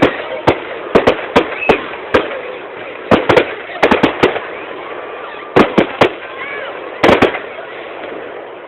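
Fireworks display: a rapid, irregular run of sharp bangs and cracks in clusters over a steady crackling hiss. The bangs thin out over the last few seconds.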